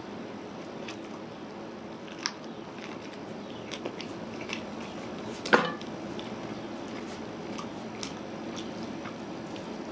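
Close-up eating of chicken curry and rice by hand: chewing and biting with small wet mouth clicks, and one sharp click a little past halfway.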